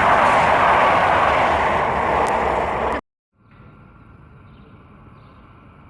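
High-speed passenger train passing through a station at speed, a loud steady rush of noise that cuts off abruptly about three seconds in. A faint steady background with a thin high drone follows.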